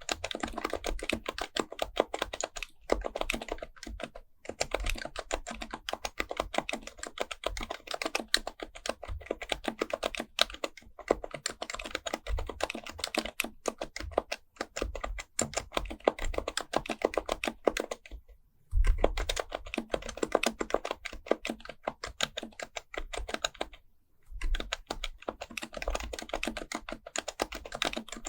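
HHKB Pro Type-S keyboard with Topre capacitive switches being typed on fast and continuously, a dense stream of keystrokes broken by a few brief pauses.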